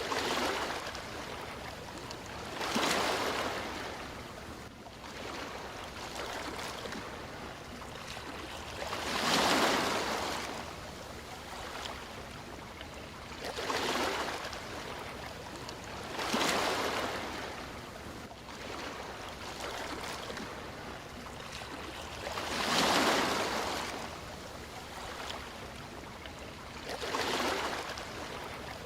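Sea waves breaking and washing in, a swell of surf every three to six seconds over a steady hiss of water.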